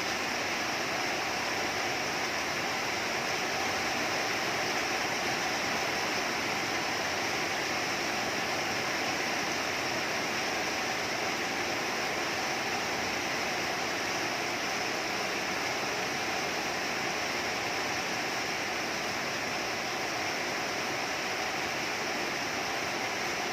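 Heavy rain falling steadily, an even wash of noise with no let-up.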